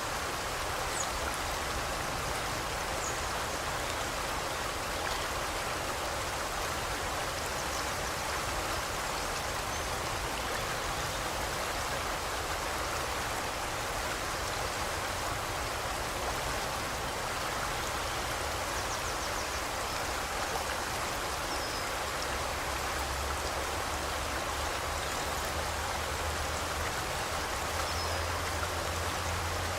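Forest river flowing: a steady, even rush of water over stones. Faint bird chirps come through a few times.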